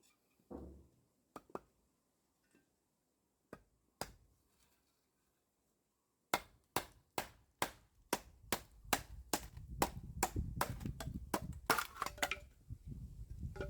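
Hammer blows on wood, as in nailing together wooden beehive parts: a few scattered light knocks, then from about six seconds in a quick, regular run of strikes, two to three a second and speeding up, with a low rumble beneath.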